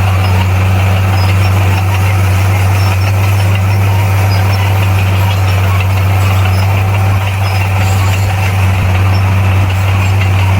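Heavy diesel engine of earthmoving machinery running steadily at an even speed, with a constant low drone.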